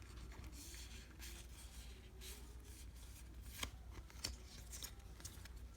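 Baseball trading cards being slid and flipped through by hand: a faint rustle with a few soft clicks, the sharpest about three and a half and four and a quarter seconds in.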